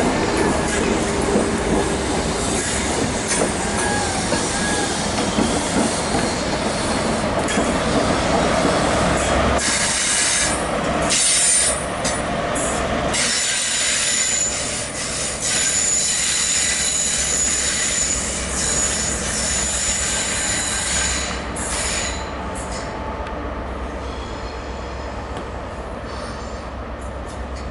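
InterCity 125 high-speed trains moving through the station: Mark 3 coaches rolling past with wheels squealing, then a Class 43 diesel power car passing close with its engine running and a steady high squeal. Near the end a quieter, more distant train approaches.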